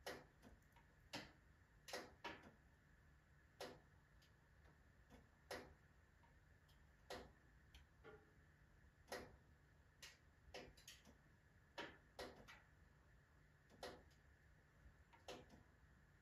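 Wood fire crackling in a wood-burning stove: faint, irregularly spaced pops and snaps, roughly one a second, over a faint low hum.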